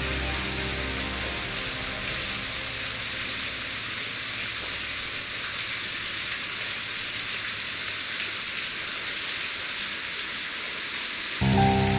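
Steady rushing hiss of a waterfall. Background music fades out in the first second or two and cuts back in suddenly near the end.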